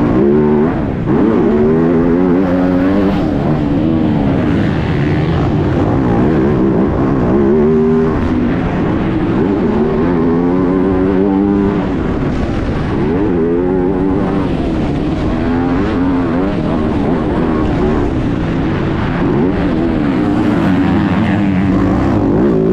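MX2 motocross bike engine recorded on board, revving hard and dropping again over and over as the rider accelerates, shifts and backs off around the track, with wind noise.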